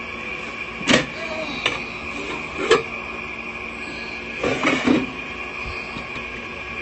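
Air fryer's fan running with a steady whir and a thin high whine, with a handful of short knocks and clatters spread through it.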